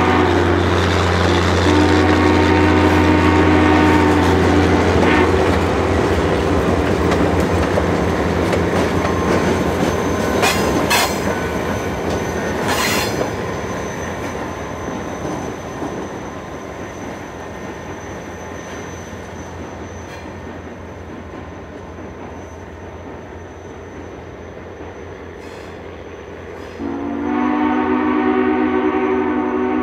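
A passenger train passing on a curve. The train sounds a long multi-note chord, once about a second in and again near the end. Between the chords, a steady low engine drone fades away, with a few sharp clicks and a high squeal from the wheels.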